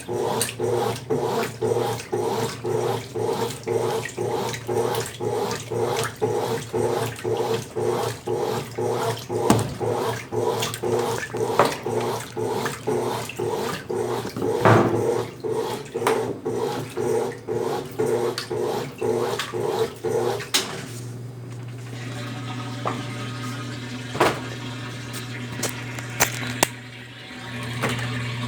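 Consul Facilite 10 kg top-loading washing machine agitating in its wash cycle, the motor and agitator swinging back and forth in a steady rhythm of about two strokes a second. About 20 seconds in the agitation stops and a steady electrical hum with water sounds follows.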